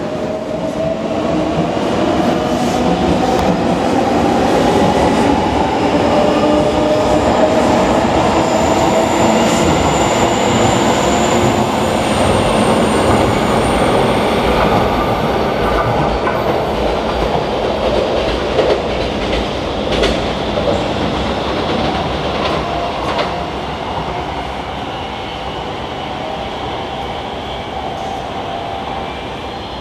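JR Kyushu 883 series 'Sonic' electric limited express running past close by: a steady rumble of wheels on rail with a whine that rises in pitch over the first ten seconds. A few sharp clacks of wheels over rail joints come in the second half as the sound eases off.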